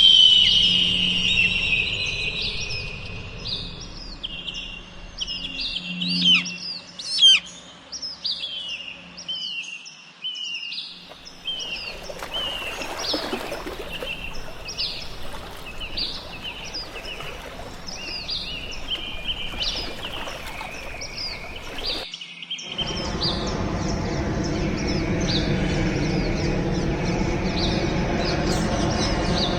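Many small birds chirping and calling in quick overlapping notes, opening with a loud call that falls in pitch. About three quarters of the way in, a steady noise with a low hum starts underneath the birdsong.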